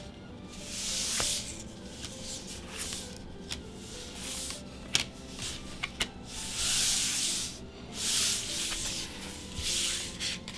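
Trading cards and booster-pack wrapping being handled: about four rubbing swishes of cards sliding against each other and against the packaging, with a few sharp clicks in between.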